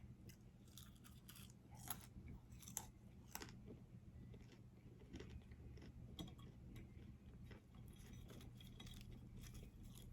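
A person quietly chewing food close to the microphone, with scattered small clicks and crunches of the mouth.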